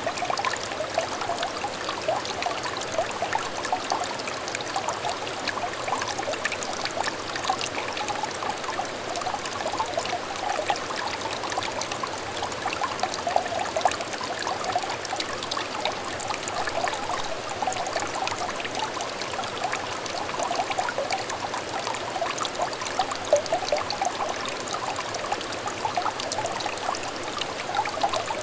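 Small clear stream trickling and babbling steadily, with many small bubbling splashes over a continuous water rush.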